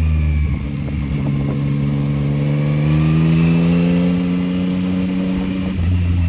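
Yamaha MT-09's inline three-cylinder engine pulling hard, its pitch climbing steadily for about five seconds under acceleration, then dropping back sharply near the end.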